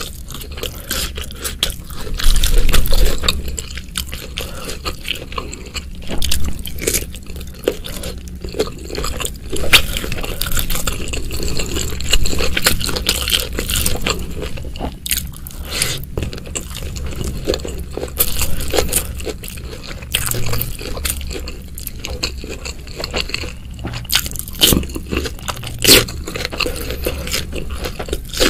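Close-miked eating sounds: a person biting and chewing mouthfuls of rice with spicy kikil (beef skin), eaten by hand. Many short, sharp, irregular clicks and wet mouth smacks.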